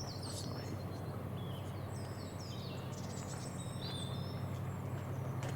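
Wild birds singing and chirping, many short whistled notes overlapping, over a steady low hum.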